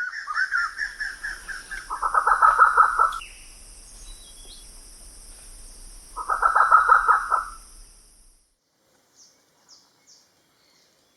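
Grey peacock pheasant calling: two bursts of rapid, harsh rattling notes a few seconds apart, after a quick run of higher notes, over a steady high-pitched hiss that stops about eight seconds in.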